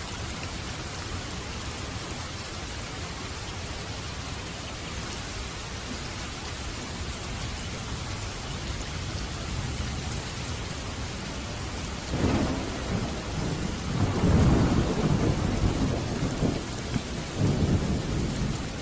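Steady rain falling, with thunder rumbling low over it in the second half: a roll about twelve seconds in, a longer, louder one shortly after, and a third near the end.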